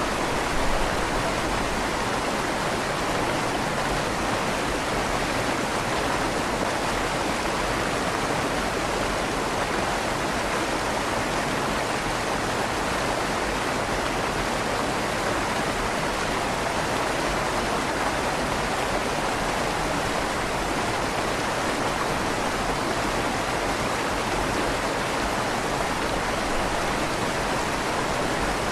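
River water flowing under a stone bridge: a steady, even rush of moving water with a slight echo off the stone of the bridge's tunnel.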